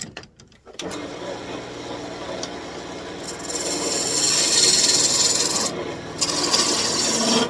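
A few clicks, then a turning tool cutting a birch branch spinning on a wood lathe: a steady hiss of wood being shaved, getting louder about three seconds in and briefly easing off near six seconds.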